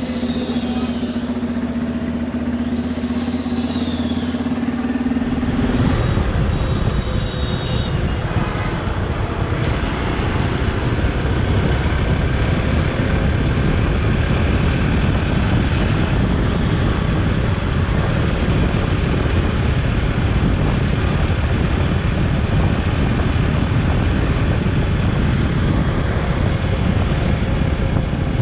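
Motorcycle being ridden, its engine running under heavy wind buffeting on the camera microphone. A steady engine hum gives way to the wind rumble about five seconds in.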